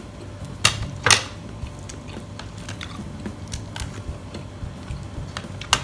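A person chewing a mouthful of chicken-heart adobo, with small mouth clicks throughout and a few sharper clicks, two about a second in and one near the end.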